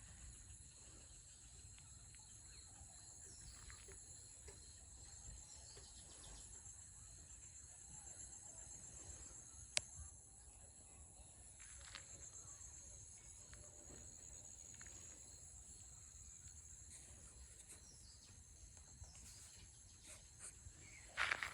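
Faint, steady high-pitched chirring of an insect chorus, with a single sharp click about ten seconds in.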